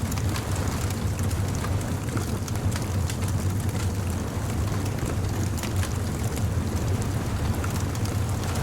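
Beach bonfire crackling, with irregular sharp snaps over a steady low rumble.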